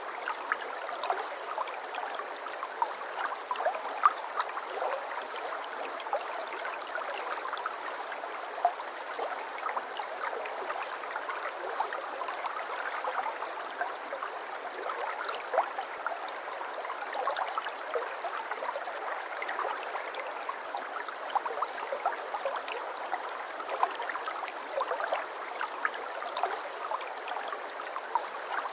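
A shallow brook babbling over stones: a steady rush of water with a constant patter of small gurgles and splashes.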